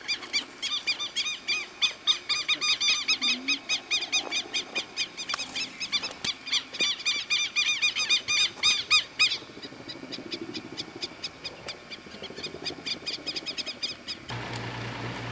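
A bird calling in a rapid, regular series of short, clear, slightly arched notes, about four or five a second, fading after about nine seconds. Near the end it cuts off abruptly to a steady low hum.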